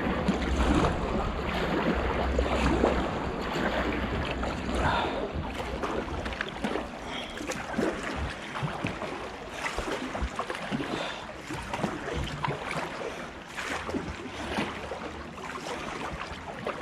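Canoe paddle strokes splashing in river water, in irregular strokes, with wind rumbling on the microphone, heaviest over the first several seconds.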